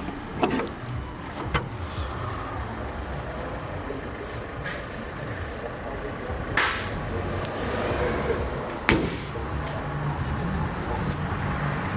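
Mercedes-Benz GLA 200 d diesel engine idling steadily, with a few short sharp knocks, such as a door or panel being handled.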